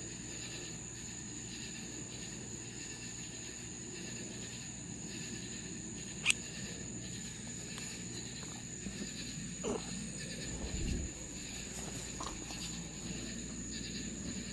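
Steady high-pitched drone of insects in the evening, with a single sharp click about six seconds in and a few low bumps near the middle.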